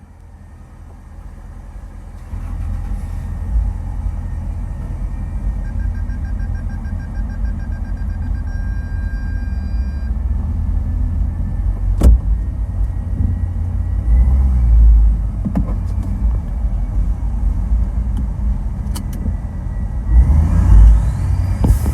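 Nissan Titan XD V8 running with a wide-open exhaust dumped just after the downpipe, heard from inside the cab while driving: a deep, loud rumble that swells under throttle a few times. Near the end a rising whine joins in.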